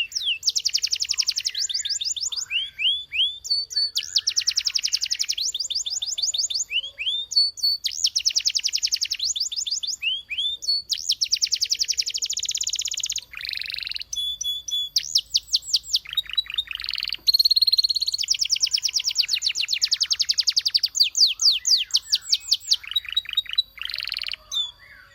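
Domestic canary singing: a run of fast trills, each a rapid roll of repeated notes lasting one to two seconds, with short pauses between phrases and a thin high whistle held beneath.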